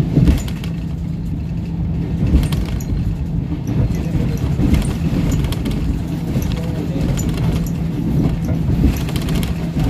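Inside a running passenger train carriage: a steady low rumble with a constant hum, and scattered light rattles and clinks.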